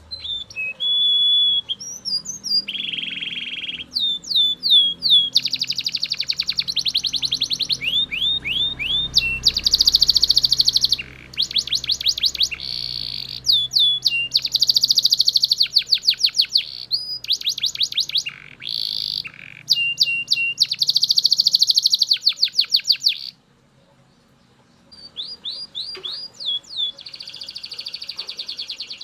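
Belgian canary singing a long, loud song made of rapid trills of repeated notes, runs of down-slurred notes and rolling buzzy tours. It breaks off briefly about 23 seconds in, then starts again.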